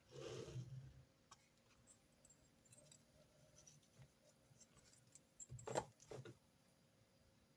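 Quiet note-taking sounds at a desk: a brief paper rustle, faint pen ticks and scratches, then two light knocks about six seconds in.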